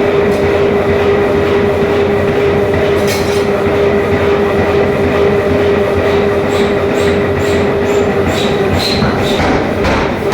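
Loud, steady mechanical din with a constant hum, joined by clinks and high metallic pings in the second half.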